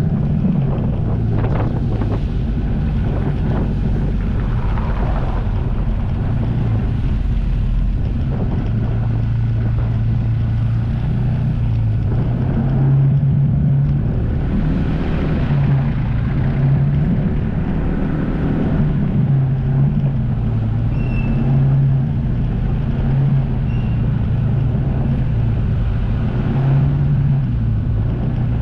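Jet ski engine running steadily, its pitch rising and falling a little several times as the throttle changes, with wind on the microphone.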